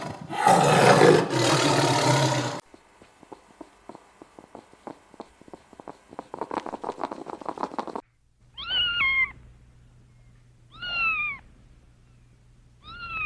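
Domestic cat meowing three times, each meow a short call that slides down in pitch. Before the meows comes a loud, rough, noisy sound that cuts off suddenly, then a run of quick, quiet clicks.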